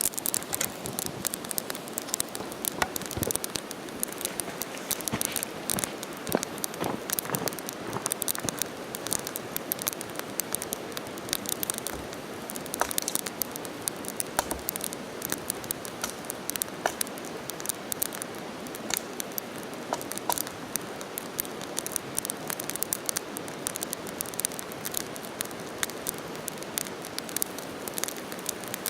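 Small campfire of kindling and leaves burning, crackling steadily with frequent sharp pops.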